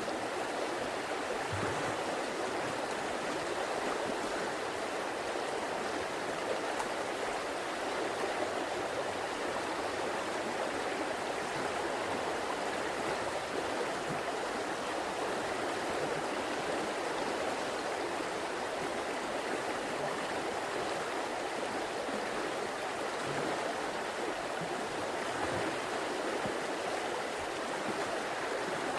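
A river flowing steadily, a continuous rushing of water over rocks with no change in level.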